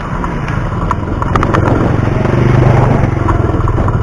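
A motorcycle engine passing close by, growing louder to a peak a little past halfway and then easing off, over a steady low wind rumble on the microphone.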